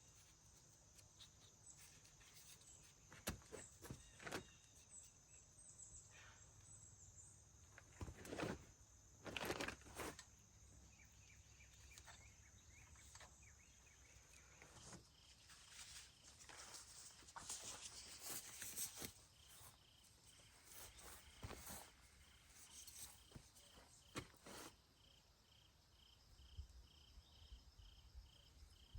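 Faint scattered clicks and knocks, a few louder ones about a third of the way in. From about halfway a cricket chirps at an even, steady pace.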